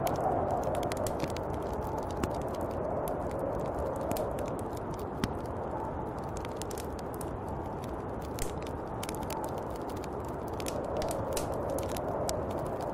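Snowstorm wind blowing steadily, swelling and easing in slow gusts, with scattered small crackling clicks throughout.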